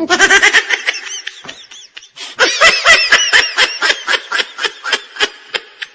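Laughter sound effect: a high-pitched voice laughing in quick repeated 'ha-ha' pulses, two bouts, the second starting about two seconds in.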